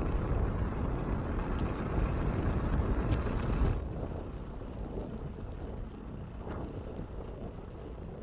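Wind rushing over the microphone mixed with the noise of a Cessna 172 Skyhawk coming in to land, dropping sharply in level about four seconds in.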